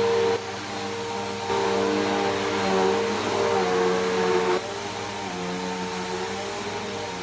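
Bissell PowerForce Helix Turbo upright vacuum cleaner running on a rug, its motor hum stepping up and down in pitch and loudness every second or few, loudest in the first moment and from about a second and a half in to about four and a half seconds in.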